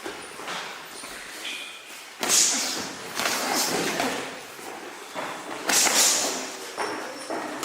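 Sudden thuds echoing in a large gym during boxing sparring, two of them loud and a few lighter, each trailing off over about a second.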